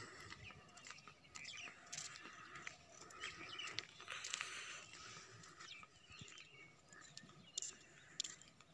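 Faint birds chirping: scattered short calls and twitters.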